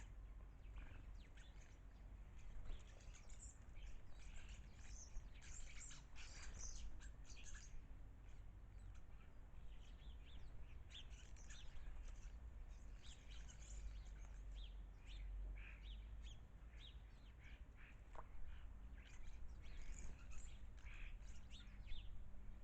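Garden birds chirping and singing, many short high calls overlapping continuously, over a faint steady low rumble.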